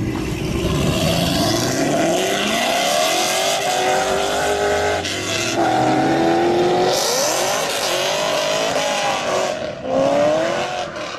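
High-performance car engines revving hard at highway speed. The pitch climbs in long sweeps and drops back at each gear change, with a burst of hissing tyre and wind noise partway through.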